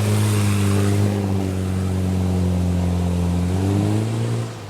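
Off-road vehicle engine running steadily, its pitch easing slowly down, then rising as it revs up about three and a half seconds in before falling off at the very end.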